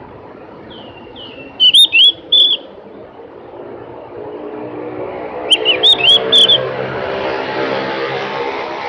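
Javan grey-throated white-eye (opior jawa) giving short bursts of loud, sharp chirping whistles: three notes about two seconds in, then a quicker run of about five notes past the middle. Behind it, a vehicle engine hum grows louder through the second half.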